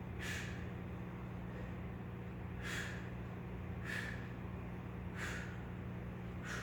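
A man's short, forceful breaths out, five in a row about one to two seconds apart: hard breathing from exertion during a workout. A steady low hum runs underneath.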